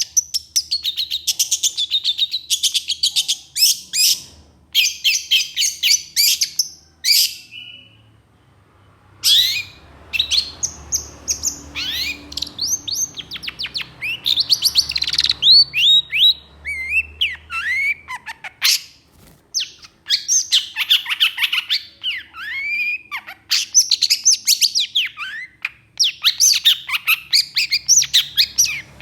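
Long-tailed shrike (cendet) singing: harsh, rapid chattering phrases of quick high notes, many of them sliding down in pitch, with a short pause about eight seconds in.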